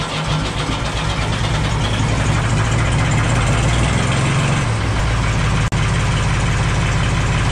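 Ford 2000 tractor's three-cylinder diesel engine just after a cold start, firing unevenly as it catches and then settling into a steady idle.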